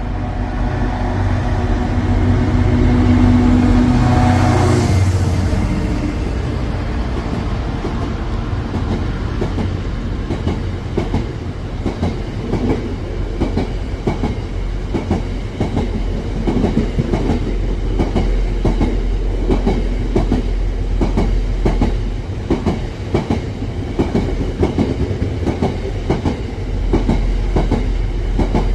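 A train passing at close range: its engine is loudest about four seconds in, then the wheels clack over rail joints in a steady, repeated rhythm as the carriages go by.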